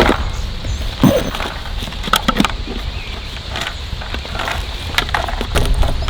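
Irregular knocks and clicks, the sharpest right at the start and about a second in, over a steady low rumble.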